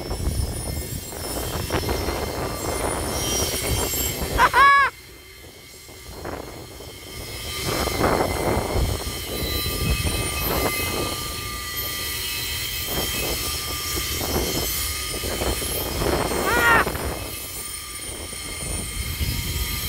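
Loaded gypsum train's hopper wagons rolling slowly past: a steady rumble of wheels on track with scattered clanks, and two short squeals, one just before five seconds in and one around sixteen seconds in.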